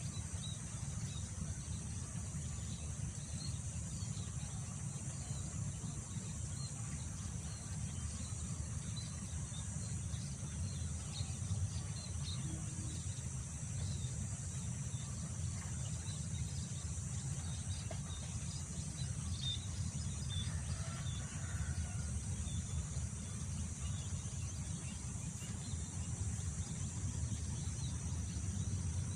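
Rural field ambience: a steady low wind rumble, a continuous high drone of insects, and scattered short bird chirps.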